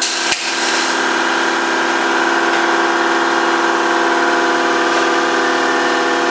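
Electric motor of a workshop machine running steadily, a constant multi-pitched whine, with a short click just after the start.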